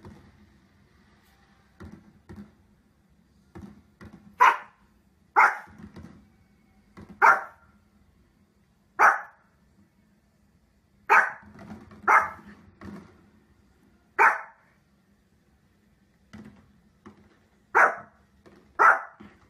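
Small fluffy dog barking in single short barks, about nine loud ones spaced a second or two apart, with a few fainter barks in between.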